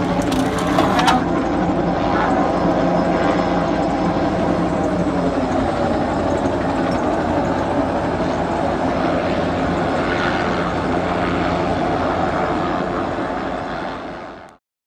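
A powered machine runs steadily, holding several constant tones over a rushing noise, with a few clicks in the first second. It eases slightly, then cuts off abruptly just before the end.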